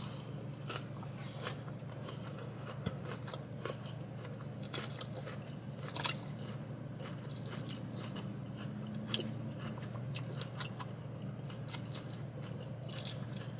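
Close-up chewing and crunching of a salad with grilled chicken, with scattered clicks and scrapes of a plastic fork in a plastic takeout container, over a steady low hum.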